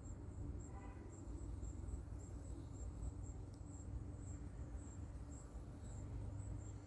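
Quiet room tone: a steady low hum with a faint high-pitched chirp repeating several times a second, and a brief faint tone about a second in.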